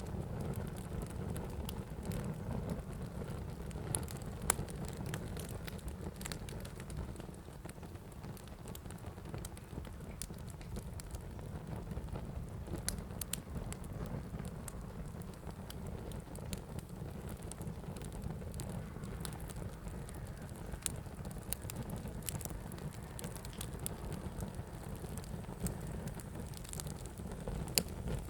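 Wood fire burning in a fireplace: a steady low roar with frequent sharp crackles and pops, a few louder snaps standing out.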